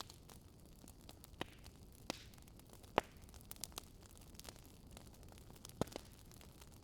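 Wood fire crackling: irregular sharp pops and snaps over a faint steady hiss, the loudest pop about halfway through and a quick pair near the end.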